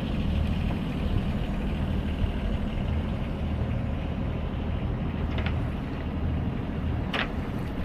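Sailboat's auxiliary engine running steadily at low speed as the boat motors out of the marina.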